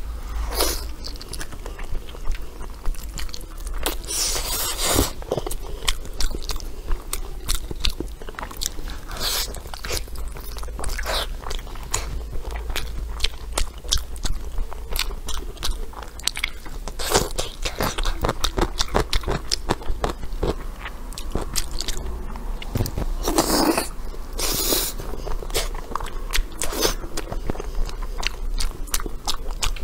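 Close-miked chewing and biting of braised pig tail, with many quick, irregular clicks and crunches.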